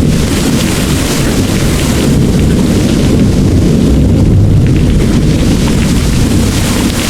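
Heavy rain pouring with thunder rumbling steadily under it, the low rumble swelling about four seconds in.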